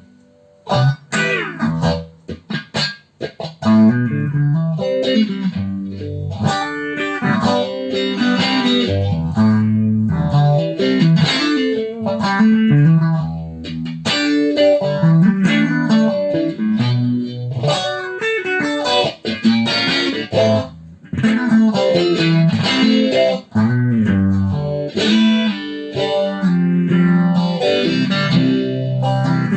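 Electric guitar played through an All Sound SC52 phaser pedal, with chords and picked notes in a continuous run. The playing starts about a second in after a brief pause.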